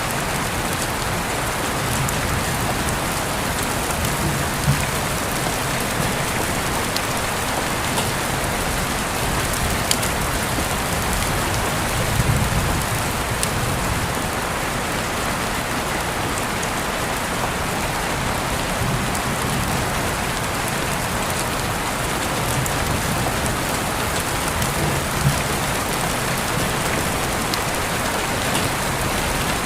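Steady rain falling, an even hiss, with a few single drops ticking louder now and then.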